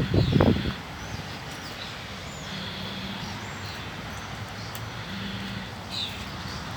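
Outdoor street ambience: a steady low traffic hum with birds chirping now and then.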